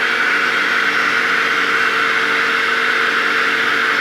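Electric drill running steadily at full speed, boring a hole into square iron bar for a gas fireplace burner.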